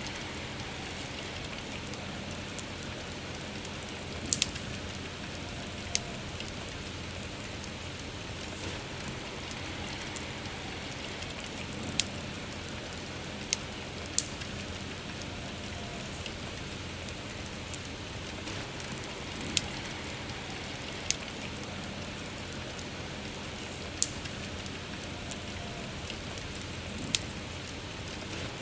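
Steady soft rain falling, with a campfire's sharp single crackles and pops every second or few.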